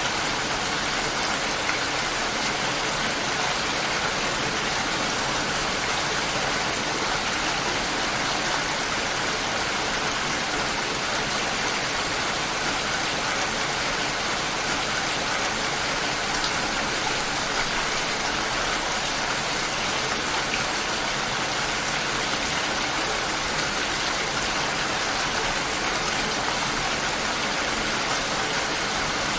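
Steady light rain falling, an even hiss of drops with no thunder.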